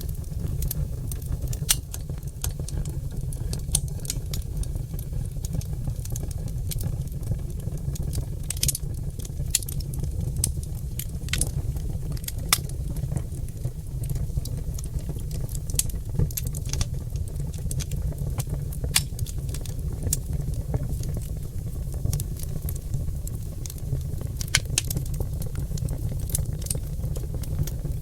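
Oak logs burning in a fireplace, crackling with irregular sharp snaps and the occasional louder pop over a steady low rumble.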